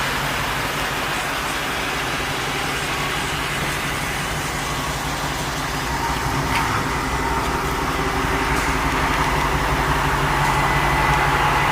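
Car engine idling steadily, getting a little louder in the second half.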